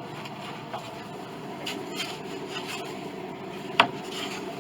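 Hands rubbing and handling a piece of old piano soundboard wood, feeling its surface, with one sharp knock of wood about four seconds in.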